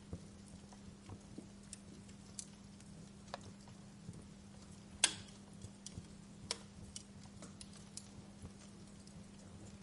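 Wood fire crackling in a fireplace: irregular small pops and snaps, the loudest about five seconds in, over a faint steady low hum.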